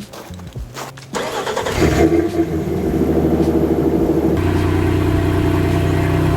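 Nissan Frontier pickup's engine cranking briefly, catching after under a second, then running at a steady idle that settles a couple of seconds later. It is a cold start in freezing winter-storm weather.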